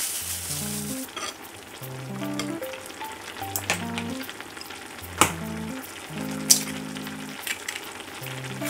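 Food sizzling in a hot pan while it is stirred, with a utensil knocking against the pan a few times, the loudest knocks about five and six and a half seconds in.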